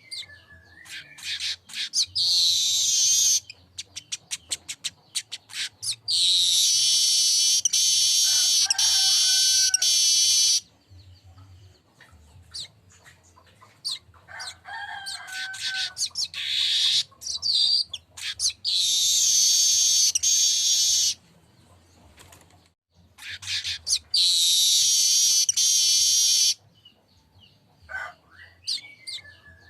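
Streaked weaver (manyar kembang) singing. Runs of rapid ticking chirps lead into long, high, wheezy buzzing phrases, each lasting a second or two up to several seconds, about five times over.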